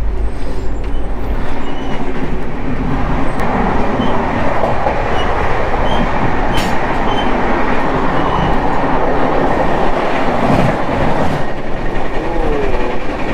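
Express train's LHB coaches running at speed: a steady rush of wheel and track noise. It grows louder about three seconds in, in the vestibule by the open coach door.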